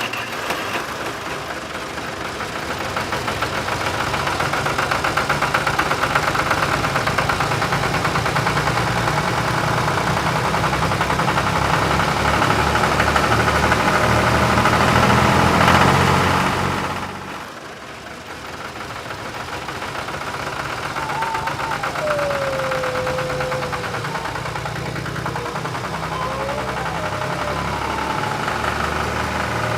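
An engine running steadily with a fast, even chug. It grows slightly louder over the first half, drops off briefly about 17 seconds in, then picks up again.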